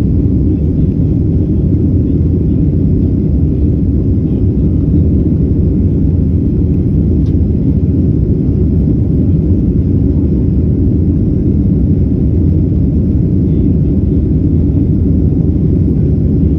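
Steady low rumble of a Boeing 767's jet engines and airflow heard inside the cabin during the climb after takeoff.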